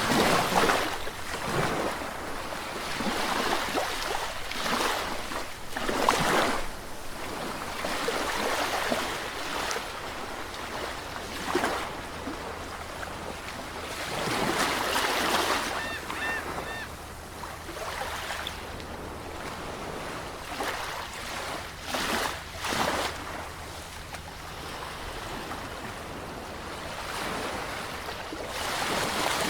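Sea waves breaking and washing in, the surf swelling and falling back every few seconds. About halfway through, a faint, short, high call sounds three times.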